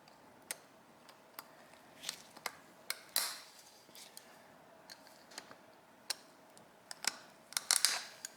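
Small metal parts and hand tools clicking and clinking as a Yamaha V-Max carburetor is taken apart: scattered sharp clicks, with two short scraping bursts about three seconds in and near the end.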